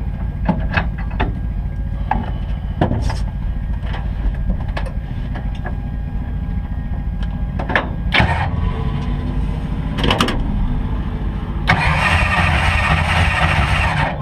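Drag race car engine idling, heard from inside the cockpit, with scattered short clicks and knocks. A loud steady hiss comes in about twelve seconds in and runs over the engine.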